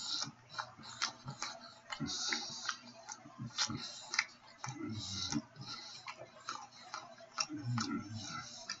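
Close-up mouth sounds of a man eating a steak sandwich: irregular wet clicks and smacks of chewing and lip-smacking, with a few short low hums.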